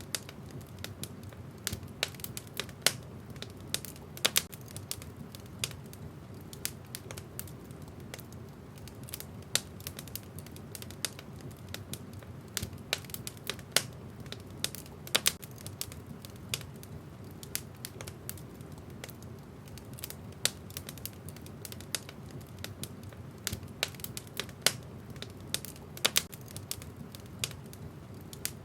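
Wood fire burning in a fireplace, the logs crackling and popping in irregular sharp snaps over a steady low rumble of the flames.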